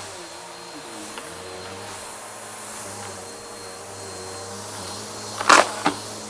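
Vacuum cleaner running steadily as it picks up a crunchy debris mix, with two sharp crunches near the end as pieces are sucked in.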